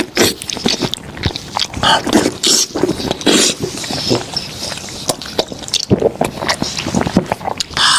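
Close-up eating sounds of a person working on goat head meat: wet chewing, sucking and many sharp mouth smacks.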